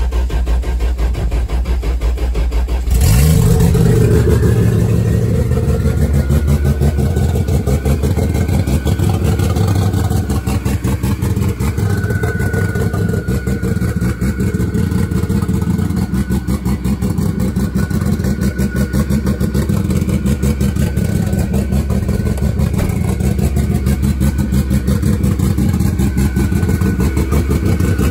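Built Toyota 2JZ-GTE inline-six with Kelford 202D cams, cranking on its first start and catching about three seconds in with a brief flare, then settling into a steady fast idle of about 1400–1500 rpm on its base map.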